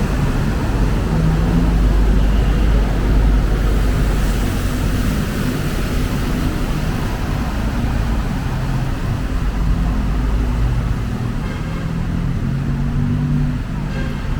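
Road traffic: vehicle engines running and passing with a steady low rumble, loudest in the first few seconds and easing off somewhat near the end.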